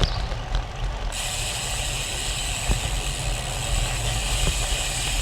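Bicycle rear freehub buzzing as the rider coasts, a steady high ratcheting whir that cuts in suddenly about a second in, over low wind rumble on the camera microphone.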